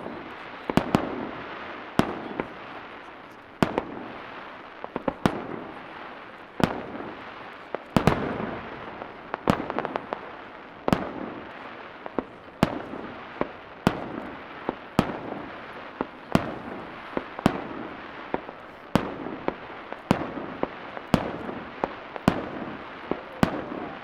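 Aerial firework shells bursting in rapid succession, sharp bangs about one or two a second, with crackling and rolling echoes filling the gaps between them, heard from about 300 m from the launch site.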